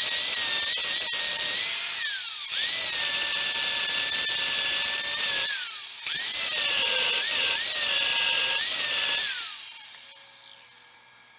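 Electric angle grinder grinding steel, its whine dipping in pitch under load. It briefly stops and spins back up twice, then is switched off near the end and winds down with a falling pitch.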